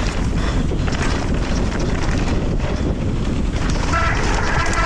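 Wind buffeting the microphone and mountain bike tyres rolling over a dirt downhill trail during a descent. About four seconds in, a brief high pitched tone rises over the noise.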